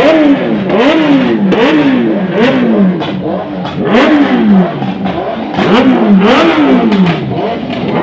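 Motorcycle engine being revved in repeated throttle blips, about once a second, each pitch rising sharply and then falling back to idle.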